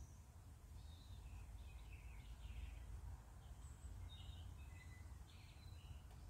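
Faint ambience: scattered short bird chirps over a steady low rumble.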